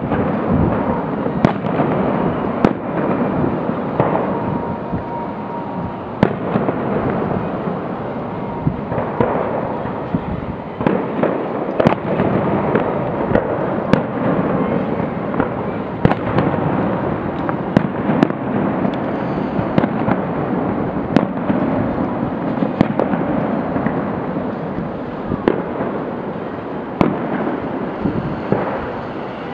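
Fireworks display: a fast, unbroken string of bangs and booms over a steady crackle of bursting shells.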